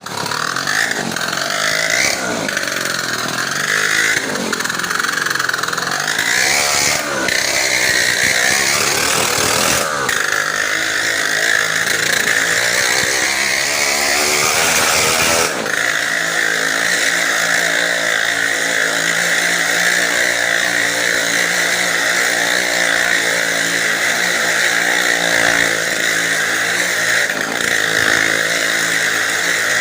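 Motorcycle engines running at high revs as they circle a well-of-death drum, revving up and down through the first half, then holding a steady, high drone from about halfway.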